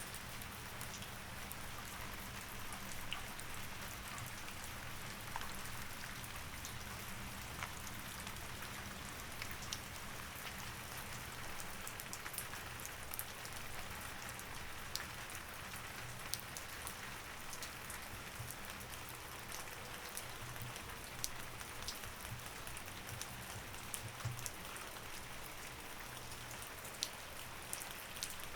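Steady rain: an even hiss dotted with scattered sharp drop ticks, over a faint low steady hum.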